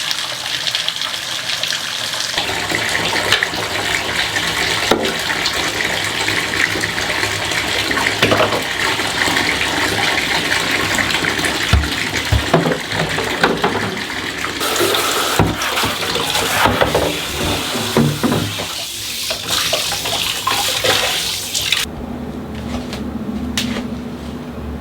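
Tap water running over parts being washed in a sink, with scattered knocks and clatters among it. The water cuts off suddenly near the end.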